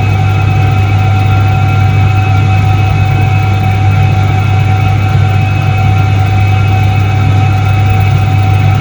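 Soviet Iset-3 washing machine from 1978 running: a steady, unchanging motor hum with a fainter, higher whine above it.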